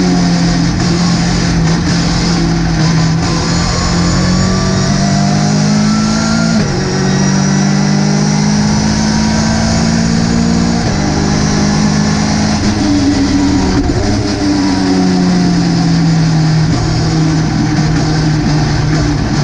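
Ginetta GT5 race car engine under hard acceleration. The note climbs steadily through the gears, with upshifts about seven and eleven seconds in, then jumps up briefly and falls away as the car slows.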